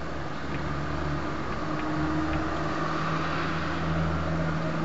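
Heavy rain falling on a street while cars drive past on the wet road: a steady hiss of rain and tyre spray, with a low engine hum coming in about half a second in.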